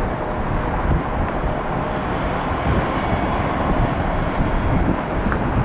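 Steady jet airliner engine noise mixed with strong wind buffeting the microphone, swelling slightly in the middle.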